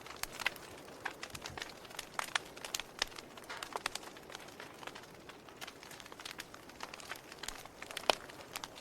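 Wood fire crackling: irregular sharp pops and snaps over a soft hiss, with one louder pop near the end.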